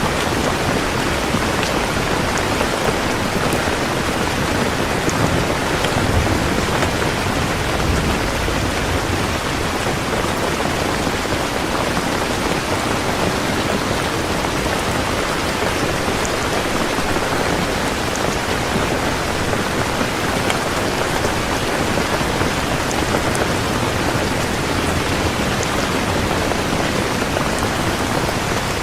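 Heavy rain falling steadily: a dense, even hiss of drops pattering on surfaces.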